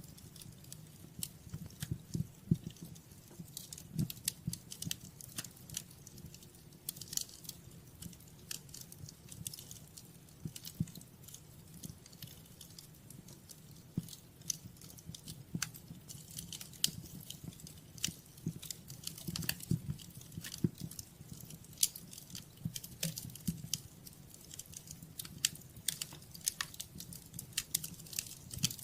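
Fire burning in a fireplace, crackling with frequent irregular sharp pops over a low steady rumble of flames.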